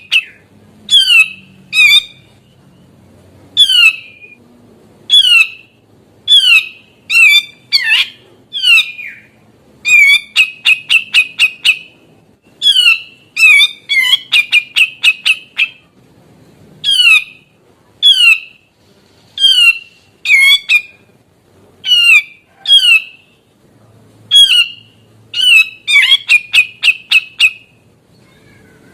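Grey-cheeked bulbul (cucak jenggot) calling loudly: short, sharp, downward-sweeping notes repeated every second or so, breaking twice into quick rattling runs.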